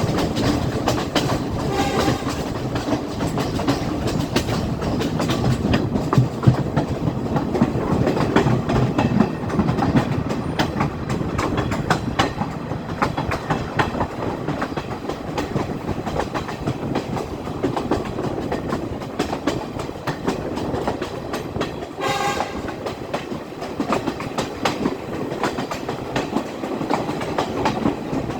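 Class S14 diesel multiple unit running along the line: a steady rumble with wheels clicking over the rail joints. A brief high tone sounds about 22 seconds in.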